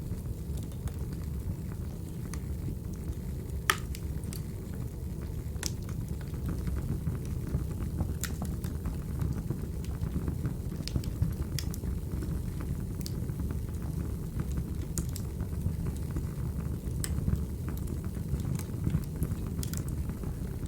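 Crackling wood fire: a steady low rumble of burning logs with sharp, irregular pops and snaps every second or two.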